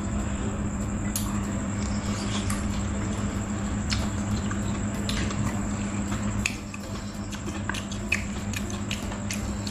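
Close-miked eating sounds: a mouthful of hot pot beef being chewed, with scattered wet clicks and smacks. A steady low hum runs underneath.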